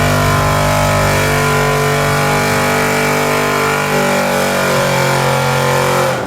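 Mud truck engine held at high, steady revs, its pitch sagging slightly near the end, then cutting off suddenly.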